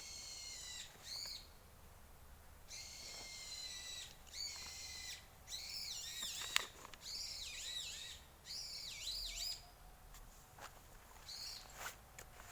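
Bird calling in repeated bouts of high, wavering notes that rise and fall, with short pauses between them, and a few sharp clicks scattered through.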